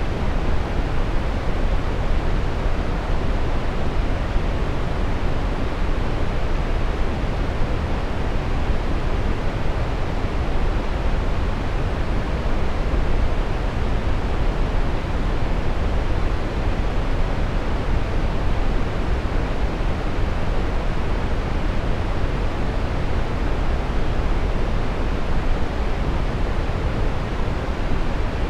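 Steady brown noise: an even, unchanging hiss weighted heavily toward the low end, deep and rumbling with little top.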